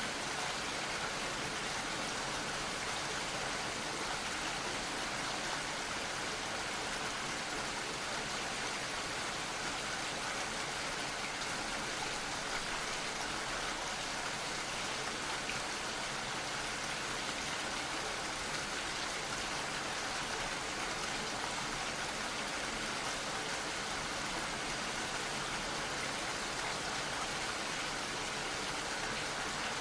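Gentle rain falling steadily: an even, unbroken hiss of drops.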